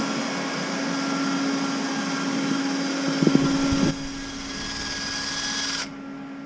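Shop machinery running: a steady motor hum and hiss over a constant low tone, with a few knocks about three seconds in. The hiss drops near four seconds and cuts out near the end.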